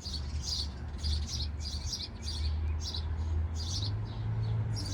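A small bird chirping repeatedly, two or three short, high chirps a second, over a low, steady rumble.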